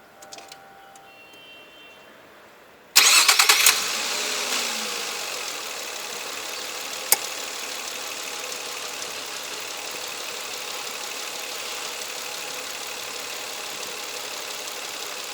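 Nissan Teana's 2.3-litre V6 engine started about three seconds in: a brief crank and catch with a loud flare, easing over a few seconds to a steady idle, heard at the exhaust. A single sharp click sounds partway through the idle.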